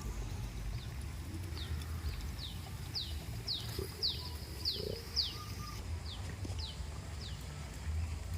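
A small bird calling a quick run of short, high chirps, each sliding downward in pitch, about two a second, that starts a second and a half in and stops near the end, over a steady low background rumble.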